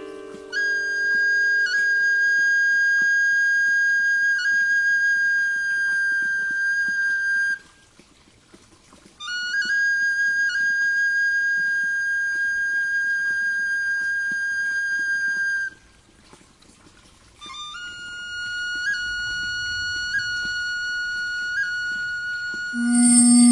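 A high flute playing three long held notes with short breaks between them, each note sliding up slightly into pitch and decorated with small quick flicks. The third note sits a little lower than the first two.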